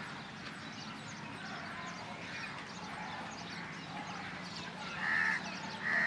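Birds calling: a running background of many short, thin chirps, with two loud, short, harsh calls under a second apart near the end.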